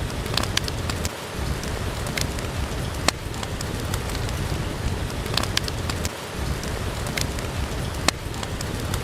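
Steady rain, with a few sharp crackles and pops from a wood fire scattered through it.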